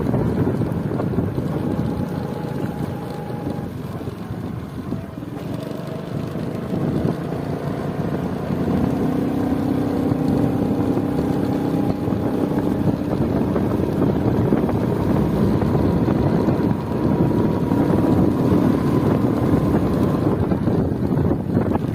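Steady rumbling noise with wind on the microphone, with a few faint held tones that change pitch every few seconds.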